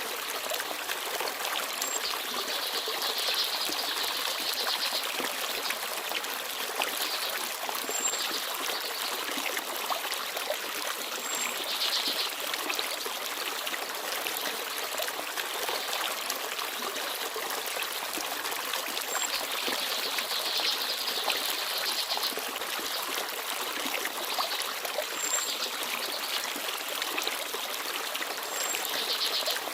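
Small forest stream babbling and trickling steadily over rocks, with a few brief, high, thin chirps from small birds scattered through it.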